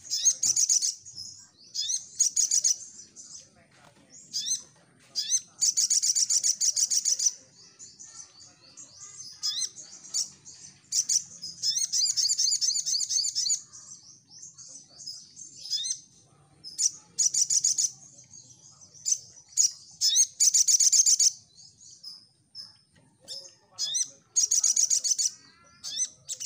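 Crimson sunbird singing: high, rapid twittering trills in bursts of a second or two, repeated over and over, with short sharp chirps between them.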